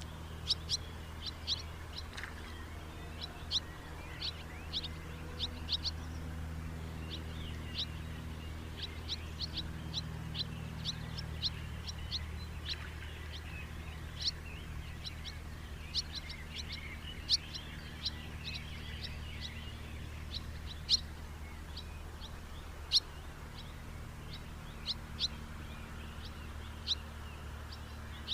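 House martins calling: many short, sharp chirps at irregular intervals, some in quick pairs or threes, over a steady low hum.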